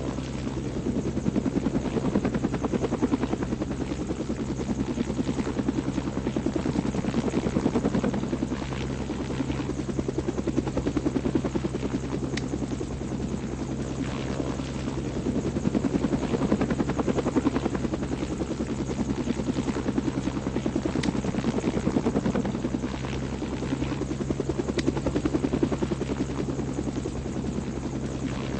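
A steady mechanical drone, like an engine or rotor, with a fast beating pulse and low steady hum, swelling and fading in loudness every few seconds.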